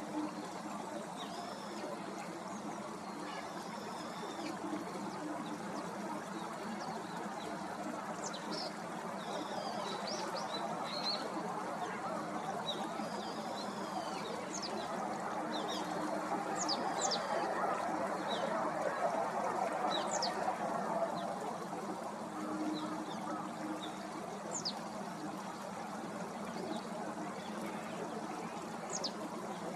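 Small birds calling in short, high chirps, most of them in the middle third, over a steady wash of flowing water that grows louder for a few seconds past the middle.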